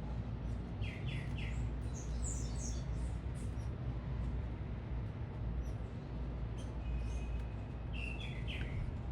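Small birds chirping at a feeder: a quick run of three notes about a second in, higher twittering around two seconds, and another chirp cluster near the end, over a steady low city rumble.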